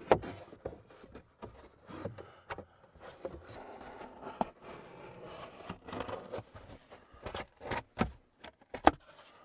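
Scraping, rustling and scattered knocks and clicks from handling a styrofoam board, with a sharp knock near the end.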